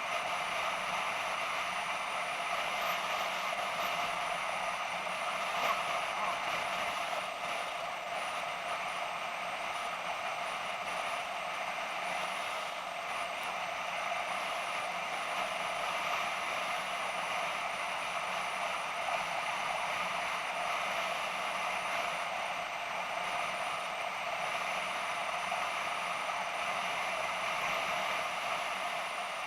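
BMW F650GS motorcycle riding at a steady speed: an even mix of engine and wind noise, with a thin high whine that wavers slightly in pitch.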